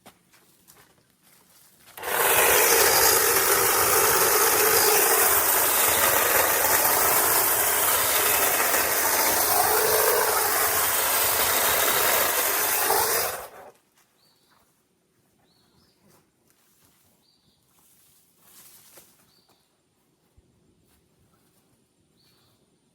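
Power saw running and cutting through a tree limb for about eleven seconds, starting and stopping abruptly, its pitch rising and falling briefly near the end of the cut.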